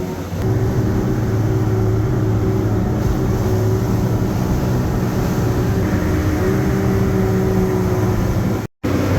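A boat's engine running steadily, a low drone with a steady whine above it. It breaks off for a split second near the end.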